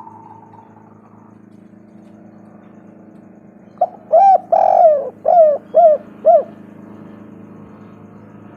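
Spotted dove cooing: a quick run of five coo notes about halfway through, the second one drawn out longer than the rest, over a steady low background hum.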